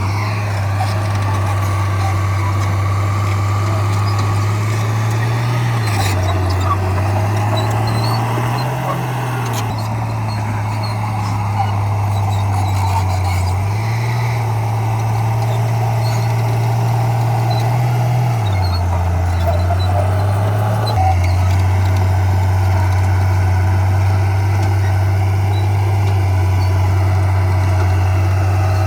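Heavy diesel engine of a crawler bulldozer running, its engine speed stepping up and down several times as it works, then holding steady over the last several seconds.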